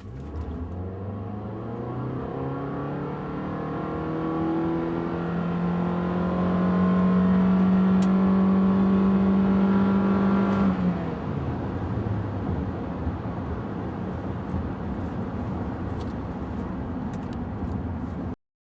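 2009 Nissan Altima's 2.5-liter inline-four with its Xtronic CVT accelerating at full throttle. The engine's pitch rises over the first few seconds, then holds almost steady and grows louder as the CVT keeps the revs up while the car gains speed. About eleven seconds in the engine note drops away, leaving steady road and tyre noise.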